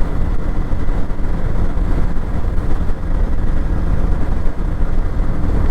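Motorcycle riding at a steady pace, its engine and the rush of the ride making a steady low rumble.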